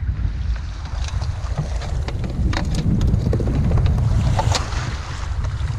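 Wind buffeting the microphone in a steady low rumble, with a few small clicks and knocks scattered through the middle.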